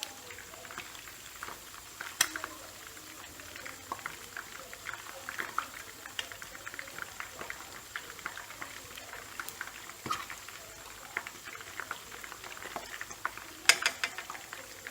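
Chicken thighs and wings deep-frying in hot oil near the end of cooking, with a steady crackle of small pops. Louder pops come about two seconds in and again near the end.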